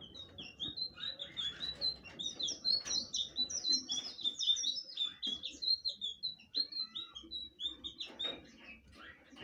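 Blue flycatcher (sikatan biru) singing a fast, continuous song of short, high, falling notes that thins out near the end.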